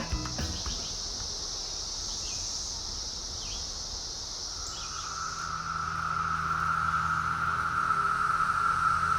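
Periodical cicadas chorusing: a steady high-pitched buzz that fades about five seconds in as a lower, louder drone swells in and holds.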